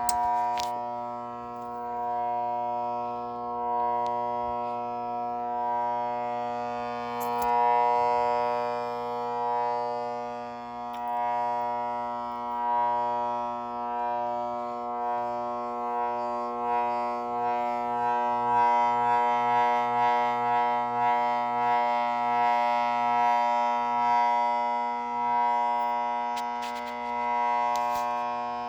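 Faulty electric fan motor running with a loud, steady pitched hum full of overtones, its loudness swelling and fading every couple of seconds; the sound of a bad fan motor.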